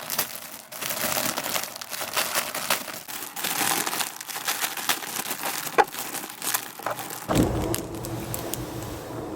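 Close-up crinkling and crackling: dense, irregular small clicks, as of material being handled. About seven seconds in it gives way abruptly to a steady low hum.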